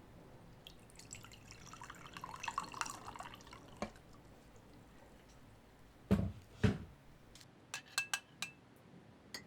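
Hot water poured into a ceramic mug, then two dull knocks, then a metal spoon clinking several times against the mug as the drink is stirred.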